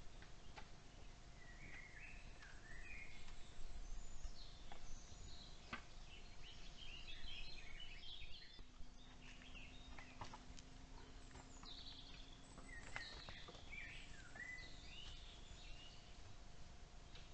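Forest songbirds singing and chirping in short, quick phrases, faint, with a few light clicks.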